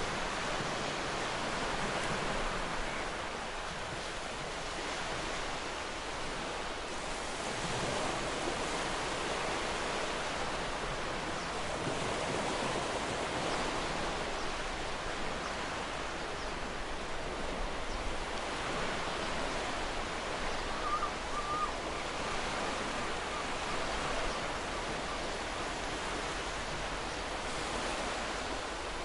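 Ocean waves breaking and washing up on a beach, a continuous rushing surf that swells and ebbs every several seconds.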